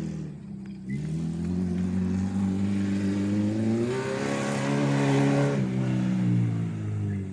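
Acura RSX's four-cylinder engine under load, revs climbing steadily after a brief lift about a second in. It peaks loudest with a rush of noise a little past halfway, then the revs fall as the throttle comes off.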